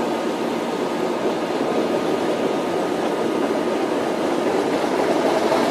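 Diesel train running steadily, a constant noisy rumble without distinct knocks, growing a little louder near the end.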